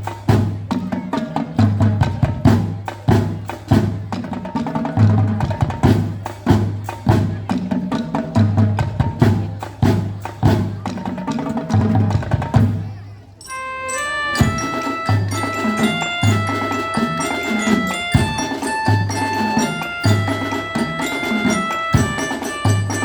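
Marching band percussion: a drumline plays a busy rhythm with heavy bass drum beats. After a short break a little past halfway, marching bells (glockenspiel) take up a melody over the drums.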